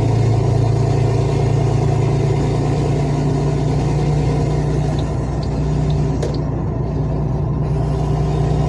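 Heavy truck's diesel engine running steadily in traffic, a deep, even drone with a few faint ticks about halfway through.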